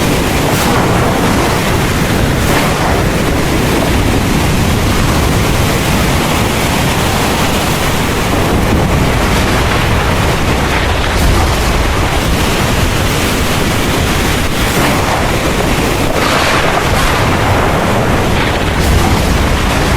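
Heavy rain pouring steadily, with a deep rumble of thunder underneath and a few brief surges of louder downpour or wind.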